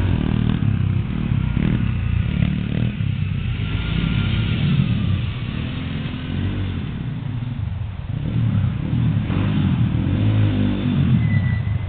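Small off-road vehicle engine running and revving as it is ridden, its pitch rising and falling; it eases off in the middle and picks up again near the end.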